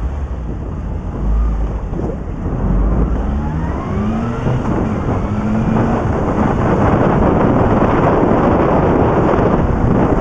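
Honda Hornet motorcycle engine accelerating, its pitch rising a few seconds in, under a heavy rush of wind noise that grows louder as speed builds.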